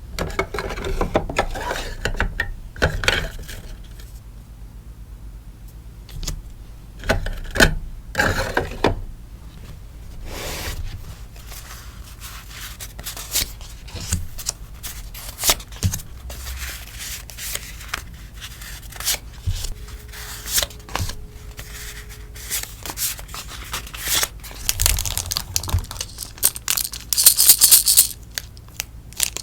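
Sticker and stationery packaging being handled: irregular crinkling and rustling of plastic wrap and paper, with taps, clicks and scrapes. There is a louder, brighter burst of crinkling near the end.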